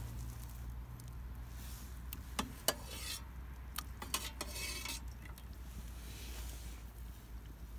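A utensil clinking and scraping against cookware, with a couple of sharp clinks and then a few seconds of stirring and scraping midway through.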